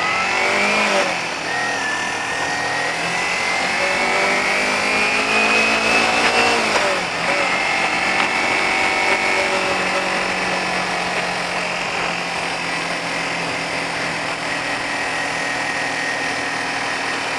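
Motorcycle engine accelerating, its pitch rising for several seconds, then dropping sharply at a gear change about seven seconds in and holding steady at speed, with wind rushing over the rider.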